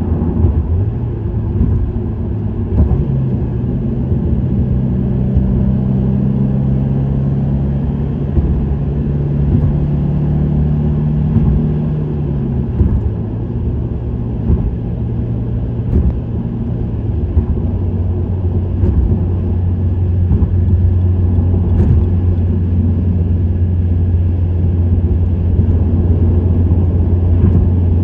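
Subaru WRX STI's turbocharged 2.0-litre flat-four with an STI Performance muffler, driving at expressway speed with road noise under the engine note. The engine note climbs slowly for the first dozen seconds, drops about halfway through, then holds a steady low drone.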